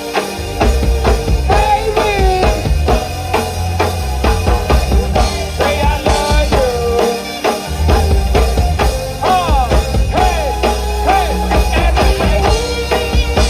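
Live rock band playing: a drum kit keeps a steady beat with kick and snare under a heavy bass line. A lead line slides and bends in pitch over the top.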